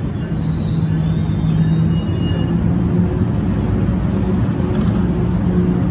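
NJ Transit Multilevel commuter train hauled by an ALP-45DP locomotive, giving off a steady low hum and rumble beside the platform that grows slightly louder.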